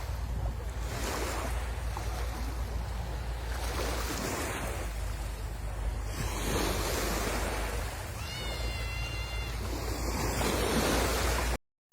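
Sea waves washing onto the shore, the surf swelling and falling every couple of seconds over a steady low rumble of wind on the microphone. A short, high whistle-like call sounds about eight seconds in, and the sound cuts out for a moment just before the end.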